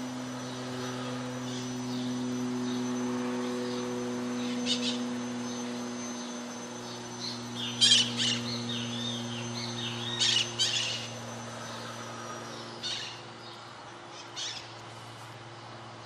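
Short bird chirps in scattered bursts, loudest about eight seconds in, over a steady low hum and a thin, steady high-pitched whine.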